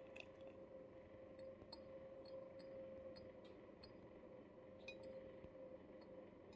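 Faint, scattered small clicks and crunches of a cat chewing raw zucchini, over a steady low hum.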